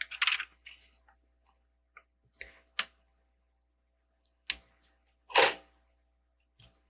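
Plastic Lego bricks clicking and rattling as pieces are handled and picked out: a quick run of clicks at the start, a few single clicks, and a longer, louder rattle about five seconds in.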